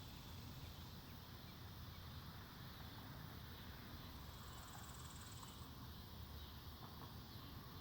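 Faint woodland ambience: a low steady rumble of wind with a light hiss, and a short high insect buzz of about a second and a half near the middle.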